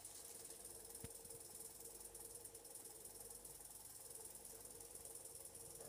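Near silence: the Hoover Logic washing machine's faint steady hum during its cotton 60 wash, with one soft click about a second in.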